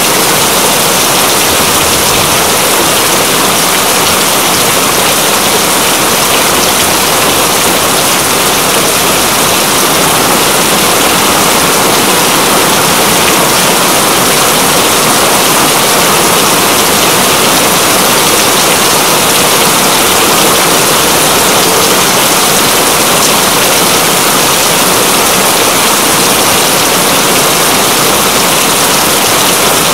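Steady heavy rain, a loud, even, unbroken hiss of dense raindrops.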